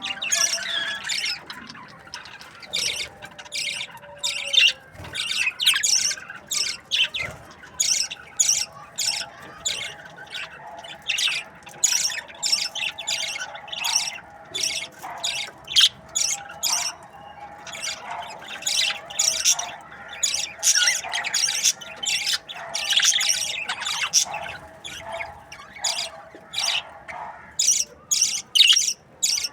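A flock of budgerigars chattering, a dense run of sharp chirps and squawks, several calls a second.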